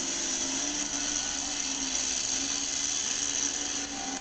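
Monster truck engine running at steady high revs: a constant-pitched drone over a hiss.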